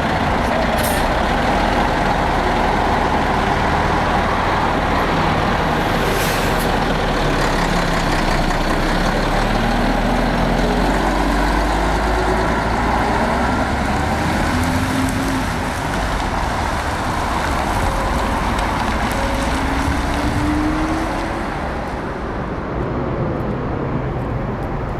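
Heavy diesel trucks running and pulling past, with the engine pitch rising and falling as they accelerate through the gears. Short air-brake hisses come about a second in and again around six seconds.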